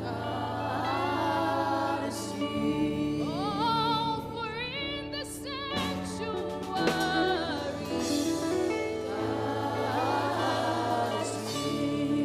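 Gospel worship music: a voice sings gliding, wavering runs without clear words over sustained chords that change every few seconds.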